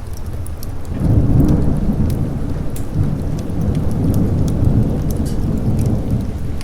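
A long, deep rumble of thunder that swells about a second in and keeps rolling, over steady rain, with scattered sharp crackles on top.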